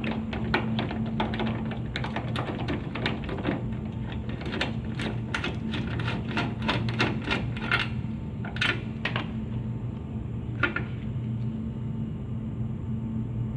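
Rapid, irregular sharp clicks and taps of hand tools and parts being worked during radiator hose removal. They come thick for most of the stretch, then thin to a few single clicks over a steady low hum.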